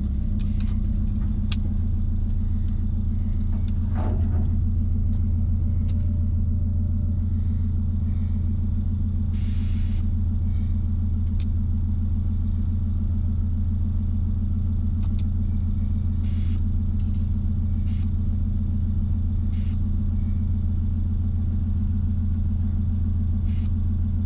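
Mazda B-series pickup's four-cylinder engine, fitted with a Holley Sniper EFI throttle body, idling steadily just after a warm restart, with a few light clicks and a couple of brief hisses over it.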